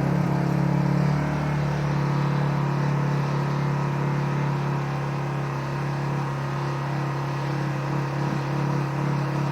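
Small inverter generator engine of an A-iPower GXS1500i, freshly started on the first pull, running steadily at its normal (high) idle with a constant hum. It settles slightly lower in level a second or two in.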